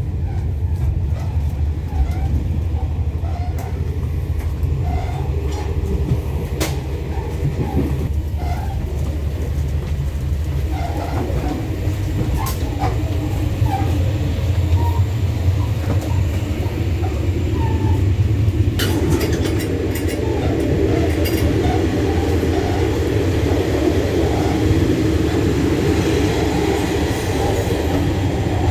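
Running noise of a passenger train heard from inside the carriage: a steady low rumble with occasional small squeaks and clicks. It grows louder after a sharp click about two-thirds in.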